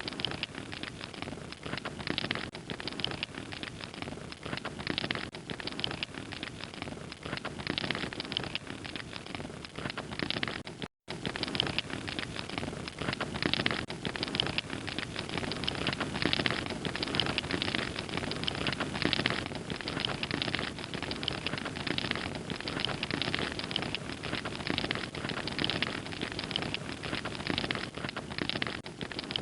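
Fire crackling and popping steadily, a dense run of small cracks and snaps. The sound drops out completely for a moment about eleven seconds in.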